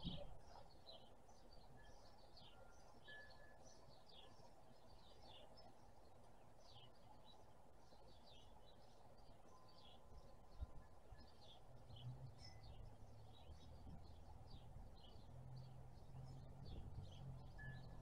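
Small birds chirping faintly, many short high chirps several a second. A faint low hum comes in about two-thirds of the way through.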